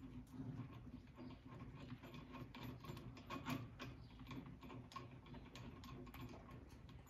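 Faint, irregular light clicks and ticks of small metal hydraulic fittings being handled and threaded loosely by hand onto a hydraulic top link's locking block, over a faint steady hum.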